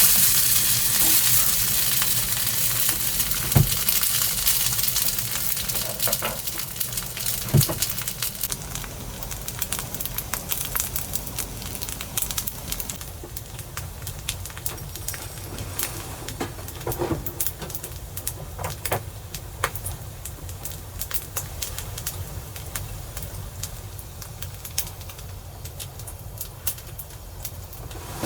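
Food sizzling in a frying pan: a loud hiss that dies away over the first several seconds, leaving scattered pops and crackles.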